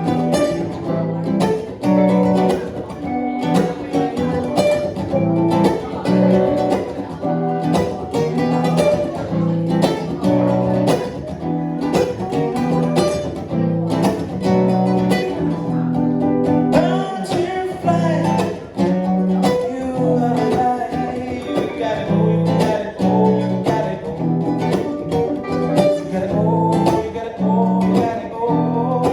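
Live guitar jam with strummed chords and picked melodic notes, playing continuously in an instrumental passage between sung lines.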